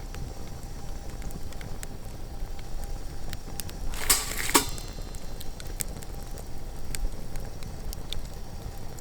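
Wood fire in a fire pit crackling, with scattered sharp pops over a low rumble and a brief louder burst of noise about four seconds in.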